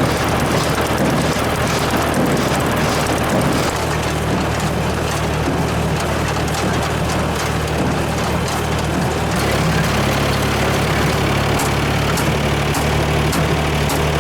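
Farm tractor engine running steadily while driving a PTO baler through a windrow of leaves; the engine note shifts about nine seconds in. A regular ticking, about two a second, comes in over the last few seconds.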